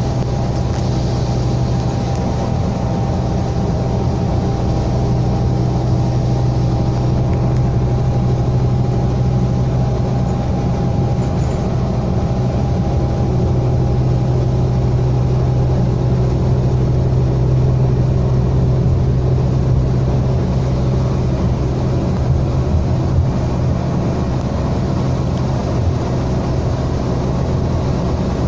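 Scania K320 bus's 9.3-litre DC9 five-cylinder diesel running steadily at a constant road speed, a low drone with a faint higher whine over it.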